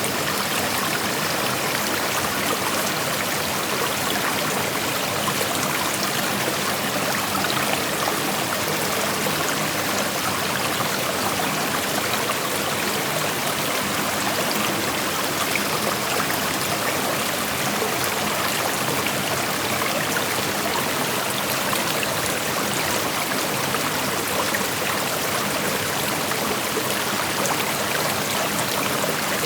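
Shallow creek water flowing and rushing over rocks, a steady, even rush with fine splashing and trickling.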